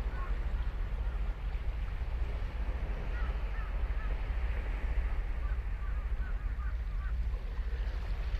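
Ocean surf washing steadily onto a sandy beach, over a low rumble of wind on the microphone. Short high bird calls come in quick runs, about three seconds in and again around five to seven seconds in.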